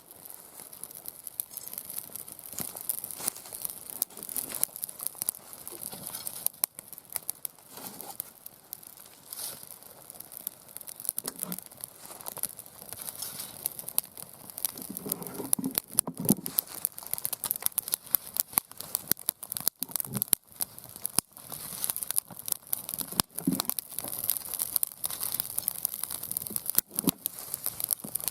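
Wood fire in a round fire pit, crackling steadily with frequent irregular sharp pops.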